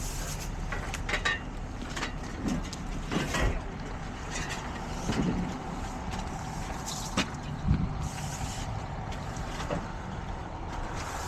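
Roadside ambience of idling vehicles: a steady low engine rumble and noise, with scattered short knocks and clicks.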